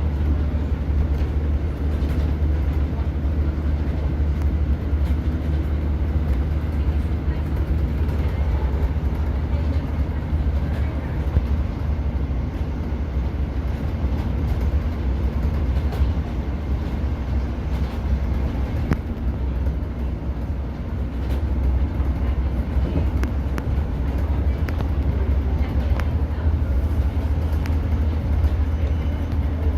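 Cabin noise aboard a moving Class 150 diesel multiple unit: a steady low drone from the underfloor diesel engine and wheels on the rails, with occasional sharp clicks from the track.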